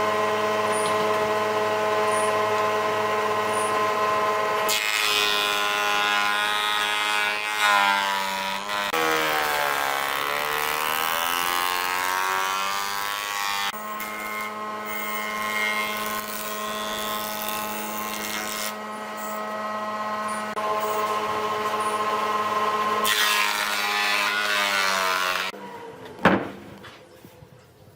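An electric power tool working wood, its motor whining steadily. The pitch sags and wavers for a few seconds midway as the motor takes load, then recovers, and the tool stops near the end.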